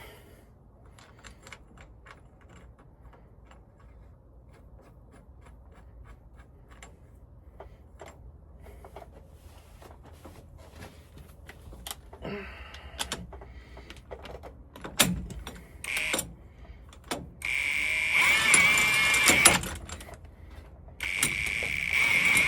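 Light clicks and clanks of a two-jaw puller being worked on a driveshaft yoke. Near the end an impact wrench runs in two loud bursts of about two seconds each, driving the puller's screw to draw the yoke off the pinion.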